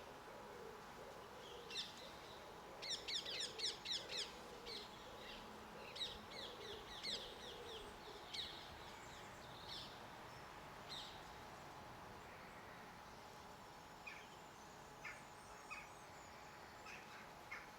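Small garden birds chirping: a quick run of sharp chirps about three seconds in, scattered calls through the middle, then fainter single chirps near the end, over a faint steady hum.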